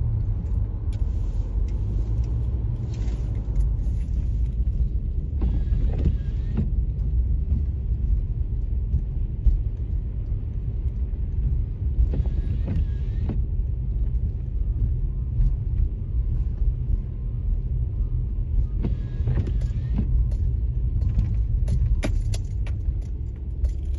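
Car driving, with a steady low engine and road rumble heard from inside the cabin. Scattered short clicks and rattles come through a few times.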